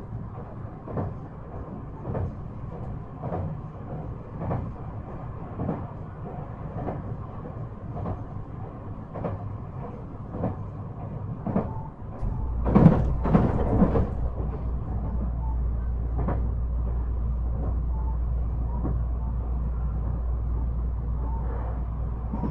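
JR 223 series 5000 subseries electric train heard from aboard, its wheels clicking over rail joints about once a second. About twelve seconds in, a steady low hum starts and a short burst of louder wheel clatter follows, then the clicks turn faint over the hum.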